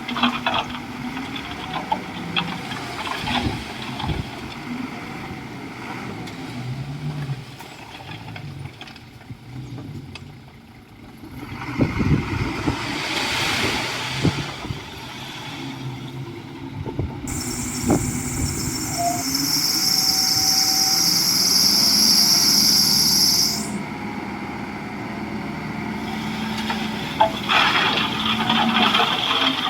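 Komatsu D41E bulldozer's diesel engine running and changing pitch as it works. About 12 seconds in comes a loud rushing noise with sharp cracks, lasting a few seconds. From about 17 seconds a high, steady hiss starts suddenly and cuts off about six seconds later.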